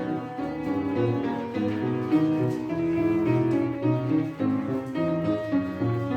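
Instrumental piano accompaniment to a children's song, playing between sung verses, with a steady melody over a bass line.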